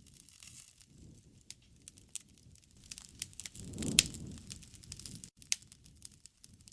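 Wood fire crackling: scattered sharp pops and snaps over a low rush of flame. One loud pop comes about four seconds in, during a brief swell of the low rushing.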